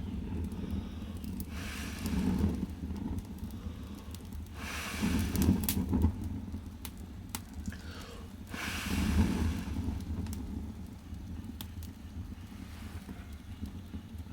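Firewood burning in the firebox of a wood-fired bath, crackling with scattered sharp pops over a low rushing that swells and fades every few seconds.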